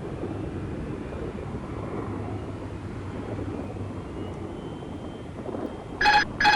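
Jet airliner engines rumbling steadily at the airport, with two short beeps near the end.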